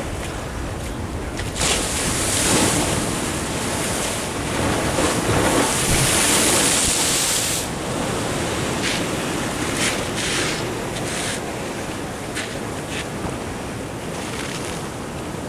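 Ocean surf washing in against the shore: one big surge of rushing water builds about two seconds in and dies away by about eight seconds, followed by a few shorter splashes, with wind buffeting the microphone.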